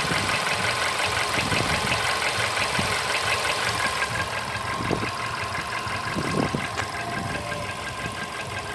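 Volkswagen Polo Sedan engine running at idle with a fast, steady, rhythmic knocking or ticking, an engine knock whose cause the owner is trying to find.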